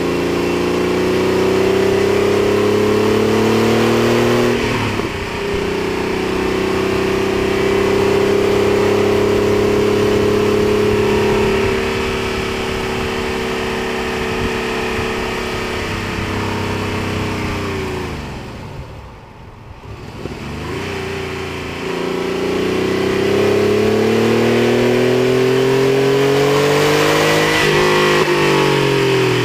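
Porsche 964's air-cooled flat-six under hard track driving: revs climbing, an upshift about four and a half seconds in, then holding, falling away as the driver lifts off around two-thirds of the way through, and climbing hard again to another upshift near the end. Wind rushing over the door-mounted microphone.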